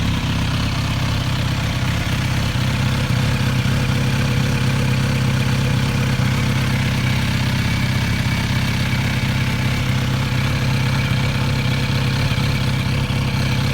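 Kawasaki Z900RS Cafe's inline-four idling steadily through a Yoshimura stainless slip-on muffler, a moderate-volume exhaust note.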